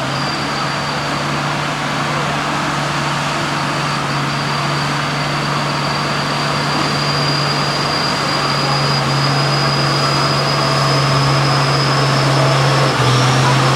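A loaded truck's engine pulls steadily in a low gear and grows gradually louder as the truck approaches. A thin, steady high whine runs over it.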